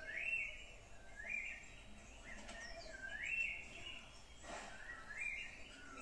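A bird calling in woodland: four rising whistled notes, a second or two apart. A short rustle about four and a half seconds in.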